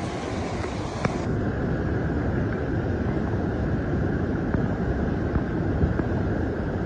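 Waterfall rushing: a steady, dense noise of falling water, heaviest in the low range, with a single click about a second in.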